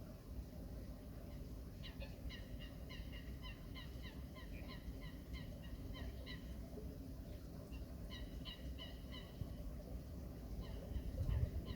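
A bird's rapid series of short, nasal honking calls, about four a second, in a few bursts over a low steady rumble.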